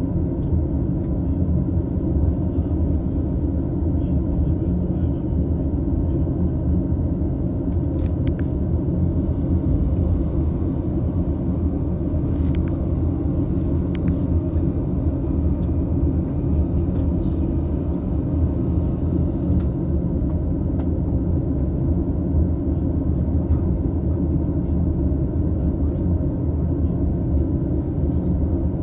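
Running noise inside an E233-series double-deck Green car on the Chuo Rapid Line: a steady low rumble of the train rolling on the rails, with a few faint clicks around the middle.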